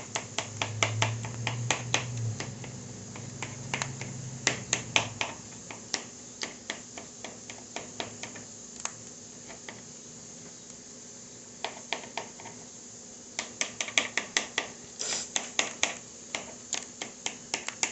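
Knife chopping rapidly on a cutting board, mincing mushrooms, in a quick run of sharp knocks several a second. It pauses for a couple of seconds about halfway through, then starts again.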